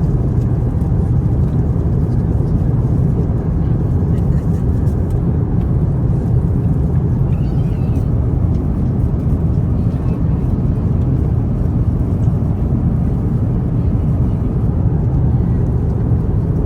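Steady low cabin roar of an Airbus A350-900 airliner in cruise: airflow and engine noise heard from inside the economy cabin.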